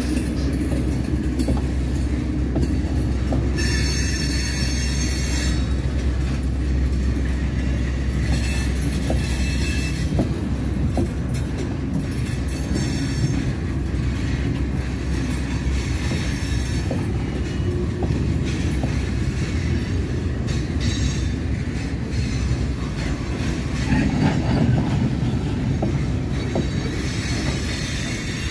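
Freight cars rolling past: a steady rumble of steel wheels on the rails with scattered clicks. High-pitched wheel squeal comes and goes, loudest about four seconds in and again near the end.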